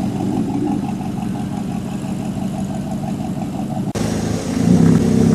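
Car engine idling with a steady, fast, even pulse, then an abrupt cut about four seconds in to another car engine running, which grows louder.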